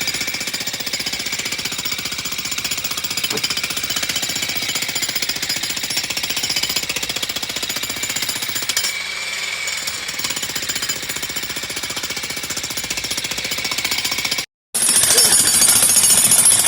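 Jackhammer hammering steadily, breaking up solid rock at the bottom of a footing hole, with a momentary break near the end.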